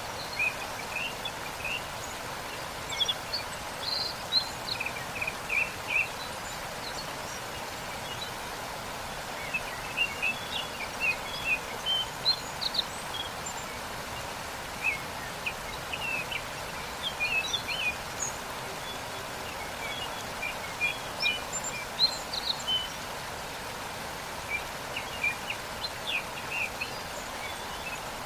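Waterfall rushing steadily, with songbirds chirping in short scattered bursts over it.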